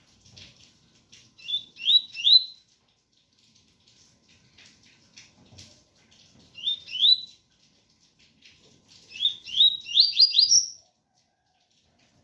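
Double-collared seedeater (coleiro) singing its pure 'tui tui' song: three short phrases of quick, upward-slurred whistled notes, the last phrase near the end the longest and loudest. Faint rain patter runs underneath.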